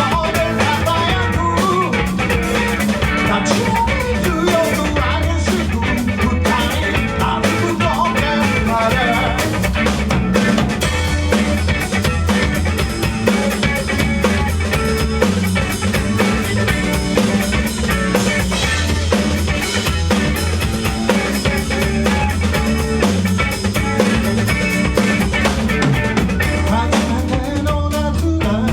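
Live band playing an instrumental passage of a song, with drum kit and guitar over a steady bass line.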